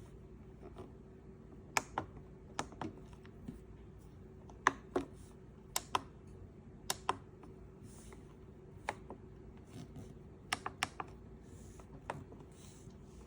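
Irregular sharp clicks and taps, often in quick pairs, over a faint steady hum.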